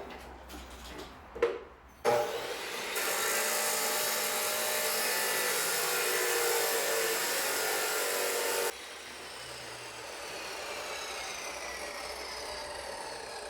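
A power tool working steadily under load, starting abruptly about two seconds in; near nine seconds in it drops suddenly to a quieter, lighter cut with a slowly falling whine.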